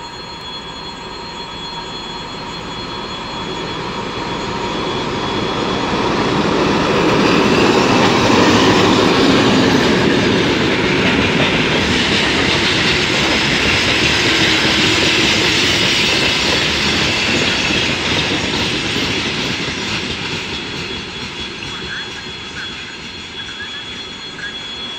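M62 diesel locomotive, powered by a two-stroke V12 diesel engine, passes hauling gondola cars. Its sound builds steadily as it approaches and is loudest about eight seconds in as it goes by. The wagons' wheels then keep rolling over the rails, fading slowly toward the end.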